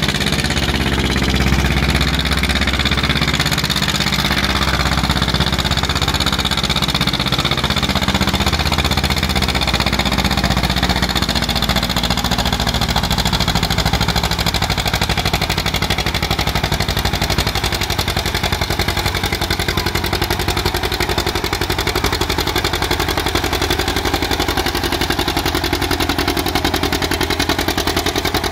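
Antique farm tractor engine running loud and hard, most likely pulling a weight sled. Its pitch wavers over the first dozen seconds, then holds steadier.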